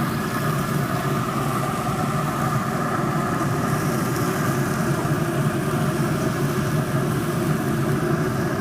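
Steady mechanical hum of a running motor, even throughout with a few constant tones.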